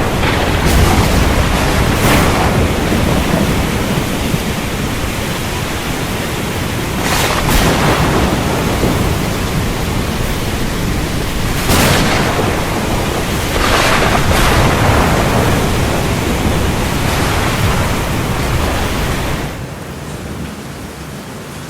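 Thunderstorm over a choppy sea: a dense wash of rain, wind and surf with thunder, broken by several short loud surges. About nineteen and a half seconds in, the storm noise drops to a quieter, softer wash.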